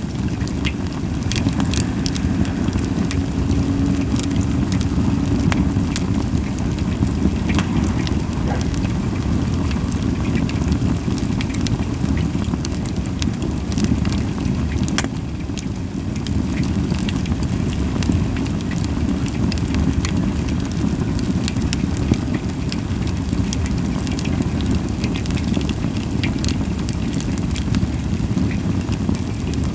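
Campfire of Japanese white pine logs burning, with frequent sharp crackles and pops over a steady low rumble and little hissing.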